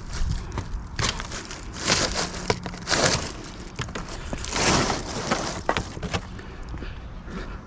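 Hands handling and pulling at discarded items: rustling and scraping in several loud bursts about a second apart, with small clicks and knocks between.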